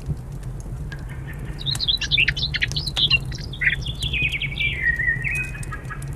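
A songbird sings a quick song of varied notes that falls into a lower run of notes near the end. Under it, a log fire crackles with scattered sharp clicks over a steady low rumble.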